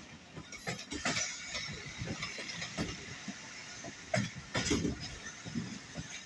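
Passenger train coach running on the track: irregular knocks, clanks and rattles from the wheels and running gear.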